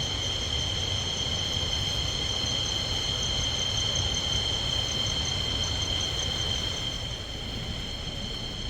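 Forest insects, such as cicadas or crickets, calling in a steady chorus: a continuous high-pitched whine made of several tones, one of them faintly pulsing, over a low even rumble.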